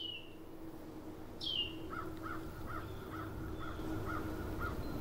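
Bird calls: two high, falling cries near the start, then a run of short repeated calls about two and a half times a second, over a low steady hum.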